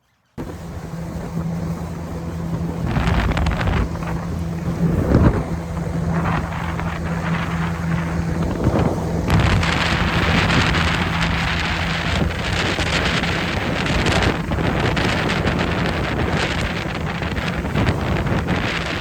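Two-stroke outboard motor running steadily as the boat moves, with heavy wind buffeting on the microphone.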